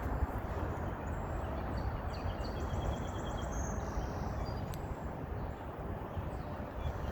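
Steady low outdoor rumble, with a brief, rapid high trill about two and a half seconds in and a single sharp click a little later.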